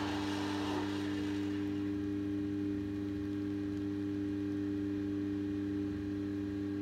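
Battery bubble machine's small fan motor running with a steady hum.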